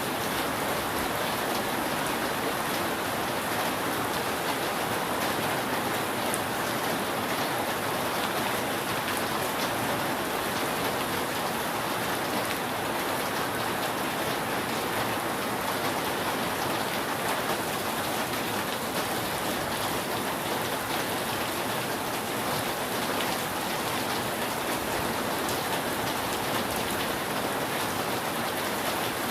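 Steady rain falling on a roof: an even hiss with scattered drop taps.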